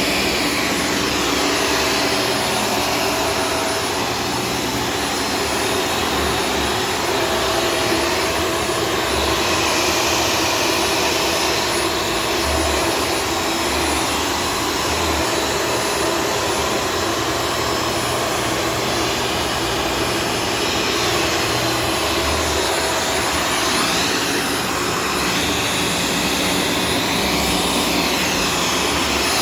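Shark Stratos vacuum cleaner running steadily, a loud whooshing with a motor whine whose pitch bends up and down a little at times.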